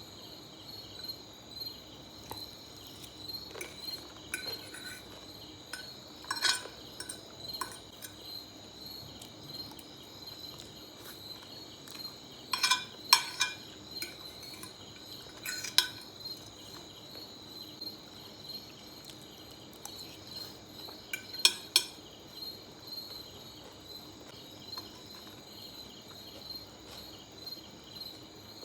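Cutlery clinking against a dish now and then, in single taps and quick clusters, while eating spaghetti. Under it runs a steady high chirring trill like crickets.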